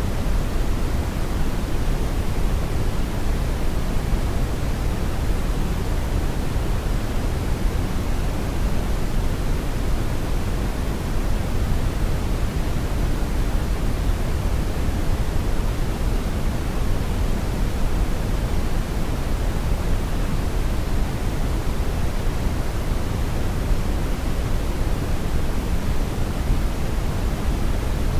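Brown noise: a steady, even, deep rushing hiss, strongest in the bass and falling off toward the treble, with no changes or events.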